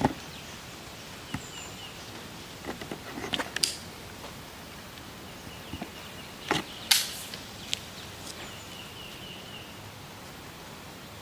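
Outdoor background noise with a few scattered sharp clicks or knocks, the loudest about seven seconds in.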